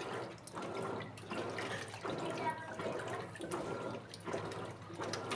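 Water sloshing and splashing inside an Electrolux Essential Care LED14 washing machine during its wash cycle, coming and going in uneven surges about once a second.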